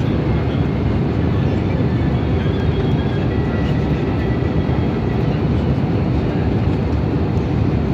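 Steady cabin noise inside an Airbus A320neo airliner: an even rush of airflow and engine noise, strongest in the low range, with no changes.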